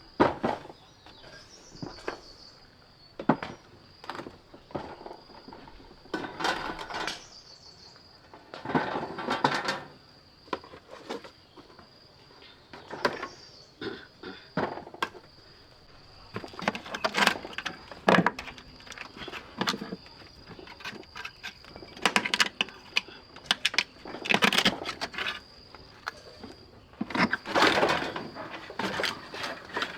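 Wood being chopped and knocked at irregular intervals, with short scraping bursts, over a steady high insect drone.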